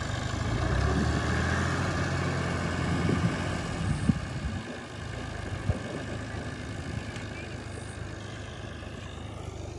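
Heavy diesel engine of farm machinery running steadily, its low drone easing off about four and a half seconds in, with a couple of sharp knocks.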